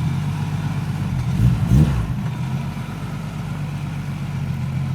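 Nissan Skyline R32 GT-R's single-turbo RB26 straight-six running with a steady low drone. It swells briefly just under two seconds in, then settles a little lower.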